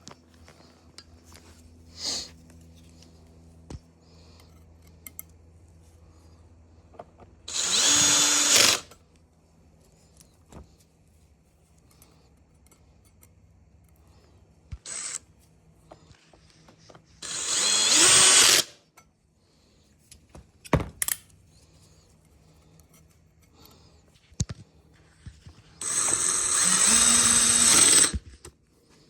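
Cordless power tool motor running in three short bursts, each spinning up with a rising whine. Small clicks and taps come between the bursts.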